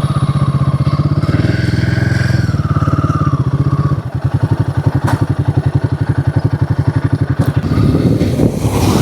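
Motorcycle engine running under way, with a steady rapid pulse. Its pitch rises and falls in the first few seconds, and there is a brief drop about four seconds in.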